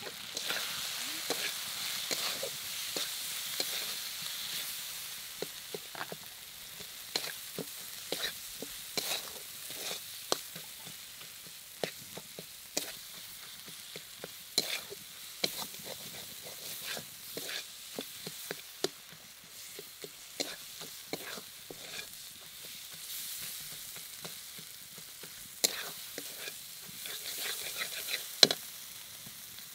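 Onion, tomato and spice masala sizzling in oil in a metal wok while a flat metal spatula stirs it, scraping and clicking against the pan many times at an irregular pace. There is a louder knock near the end.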